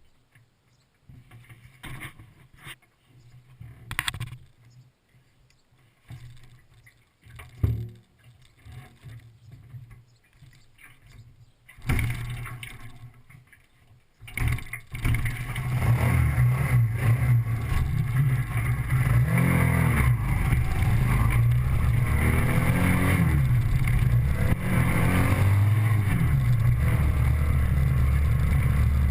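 Scattered faint knocks and handling noises, then about halfway through a motorcycle engine starts and runs. Its pitch rises and falls as it is revved, under a steady rushing noise.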